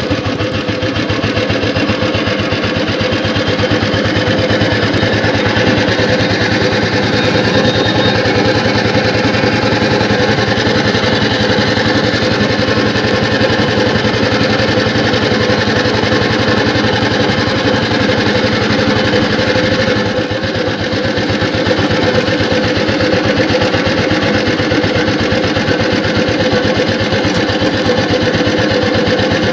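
1974 Royal Enfield Bullet 350's single-cylinder four-stroke engine running steadily as the motorcycle rolls along at low speed, its exhaust beating in an even, rapid rhythm.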